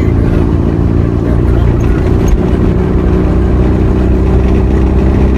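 A vehicle on the road while driving: steady engine and road noise, a continuous low hum that does not change much.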